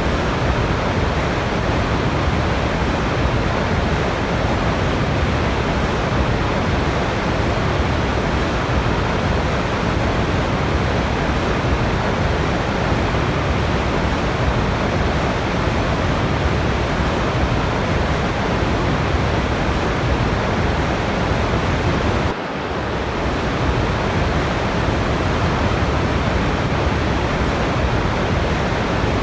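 Waterfall: heavy falling water making a dense, steady rushing hiss. A brief drop in level comes about 22 seconds in, then it builds back.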